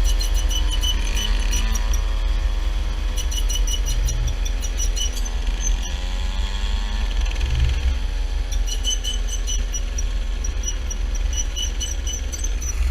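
Mini bike engine running, its pitch slowly falling, rising again about six seconds in and falling off once more, over a steady low rumble.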